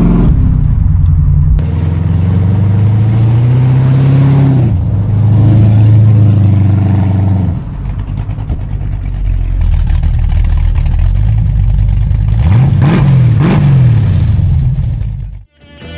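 Classic car engine running and being revved: two slow rises and falls in pitch in the first half, then a quick sharp blip of the throttle about two-thirds of the way in. The sound cuts off abruptly just before the end.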